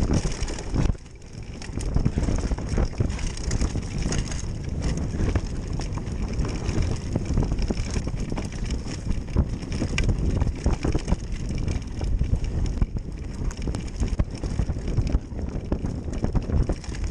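Wind buffeting the microphone, with a continual run of knocks and rattles as the camera moves over rough ground. There is a short lull about a second in.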